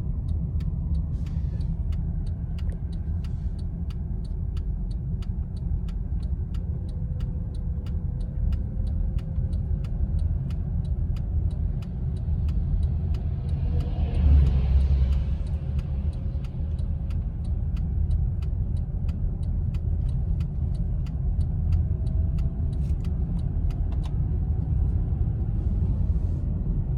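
Inside a moving car: steady low rumble of engine and tyres on a snowy road, with faint regular ticks about twice a second. About fourteen seconds in, a louder surge with hiss swells and fades.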